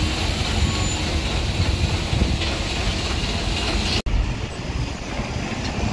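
Engine noise from heavy road vehicles: a loud, steady low rumble. It cuts out suddenly for an instant about four seconds in, then carries on.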